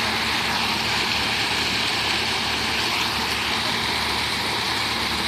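Steady rush of water pouring down an artificial rock waterfall, with a faint steady hum beneath it.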